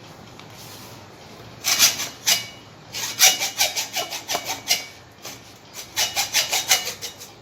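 Quick back-and-forth scraping strokes by hand on the corroded metal of a sunken compass, in three runs of about four to five strokes a second with short pauses between.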